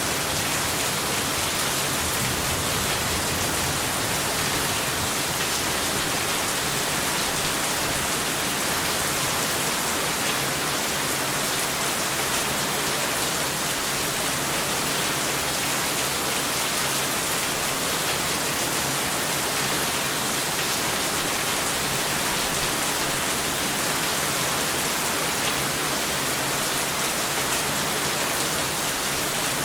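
Steady heavy rain, an even unbroken hiss with no thunder heard.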